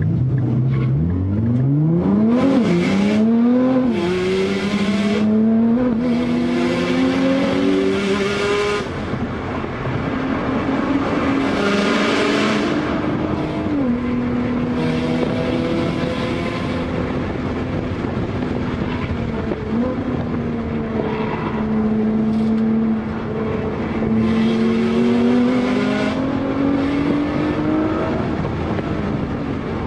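Nissan GT-R R35's twin-turbo V6 heard from inside the cabin under hard acceleration, revs climbing with quick upshifts in the first few seconds, then rising and falling as it is driven through the bends, with a rushing sound under full throttle.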